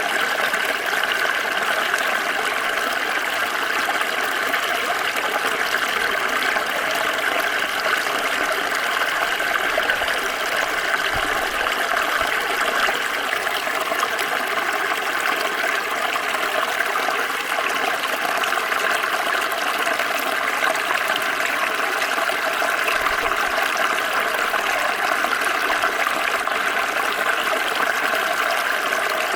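Small stream flowing, a steady babbling and gurgling of water over stones.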